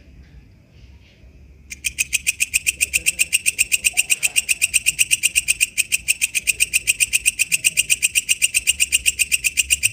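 Walang kecek katydid calling: after faint chirps, a loud, rapid, even train of ticking pulses starts suddenly about two seconds in, about six a second.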